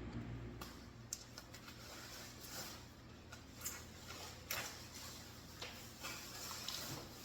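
Faint rustling of cardboard and packaging being handled and opened by hand, with scattered light clicks and scrapes.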